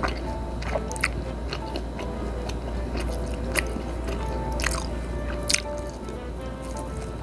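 A person chewing and biting food close to the microphone, with sharp clicks of the mouth and food several times, the loudest about five and a half seconds in, over soft background music.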